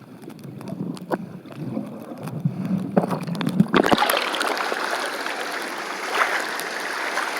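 Mountain stream water filmed with the camera in the water: a muffled low rush with small clicks, then, a little under four seconds in, a sudden switch to a bright, full hiss of rushing water.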